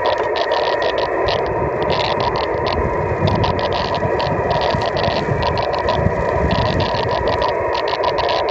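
Radio receiver audio on the 78 GHz band: steady hiss with a rough, steady tone near 1 kHz, a signal carried by rain scatter, and a flickering higher hiss over it.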